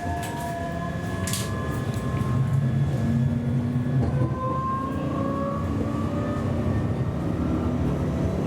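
Siemens Avenio tram running, heard from on board: a rumble of wheels on the rails under thin motor whines that glide slowly up in pitch. There is a single click about a second in.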